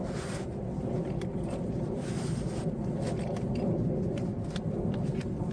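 Steady low rumble with a faint hum and a few light ticks.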